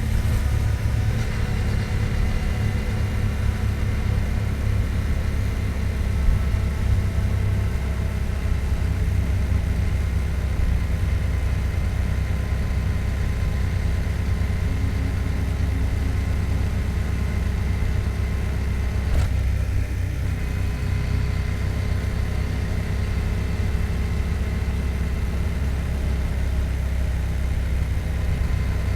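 2024 Yamaha MT-07's parallel-twin engine running steadily with a deep, even rumble.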